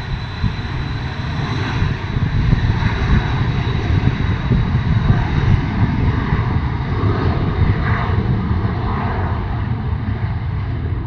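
Embraer Phenom 300E business jet's twin Pratt & Whitney Canada PW535E turbofans at takeoff power as the jet departs: a steady jet rumble with a thin high whine that fades over the first half.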